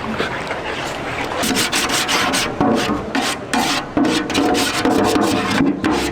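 Rapid, irregular scraping or rubbing strokes against a hard surface, starting about a second and a half in.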